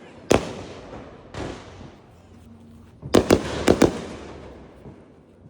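Fireworks going off: a sharp bang, a softer one about a second later, then a quick cluster of about four bangs around three seconds in, each trailing off in a fading hiss.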